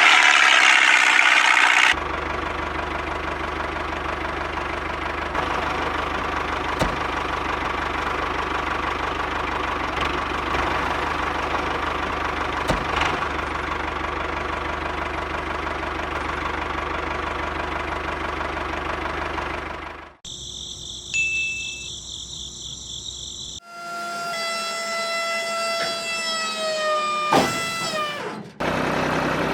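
Small motor running steadily with a hum. After a cut, a whining tone drops in pitch and falls away sharply as the machine winds down.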